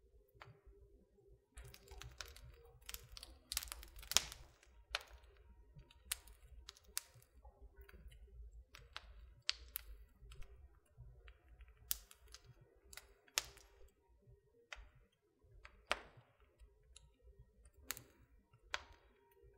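Wood fire in a fireplace crackling, with irregular sharp pops and snaps, a few louder ones scattered through, over a faint low rumble of the flames.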